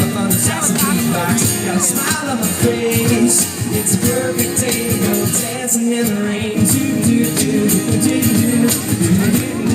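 Live pop song played by a band, with singing over the music.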